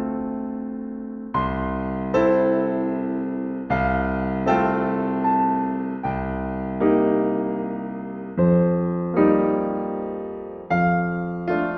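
Slow, gentle solo piano music: soft chords struck every second or two, each ringing out and fading before the next.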